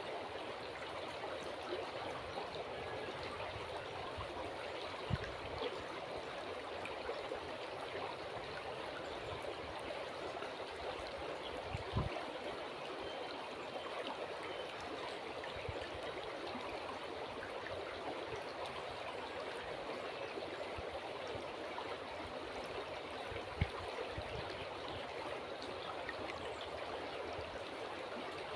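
River water running steadily, a constant even rush, with about three brief low thuds spread through it.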